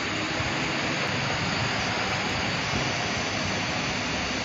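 Steady rushing noise of a vehicle on the move, road rumble mixed with wind.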